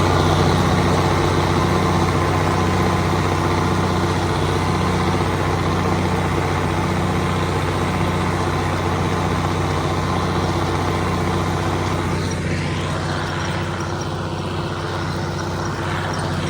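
Straight-piped Cummins 855 inline-six diesel of a Versatile 875 four-wheel-drive tractor running steadily under load while pulling an anhydrous ammonia cultivator.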